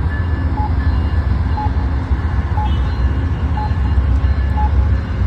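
Amtrak train rumbling steadily across a bridge, with a short high electronic beep repeating about once a second.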